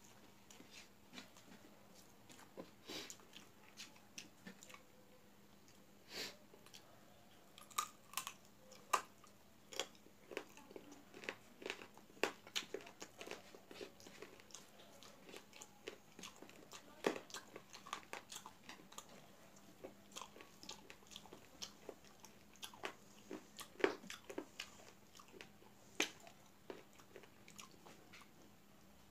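Close-up mouth sounds of a person eating rice and chicken curry: chewing and lip smacks, many short clicks at irregular intervals.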